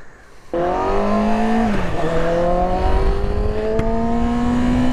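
Motorcycle engine pulling away under acceleration: the revs climb, drop as it shifts up a gear about a second and a half in, then climb steadily again until another upshift at the end. Wind rumbles on the microphone underneath.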